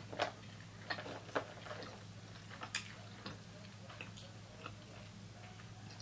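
Close-miked chewing of fried food, with a scatter of sharp mouth clicks and smacks, most of them in the first three seconds, over a steady low hum.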